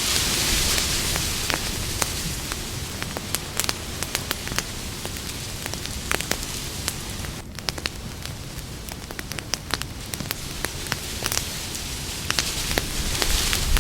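Campfire burning, crackling and popping irregularly over a steady hiss that swells briefly at the start and again near the end.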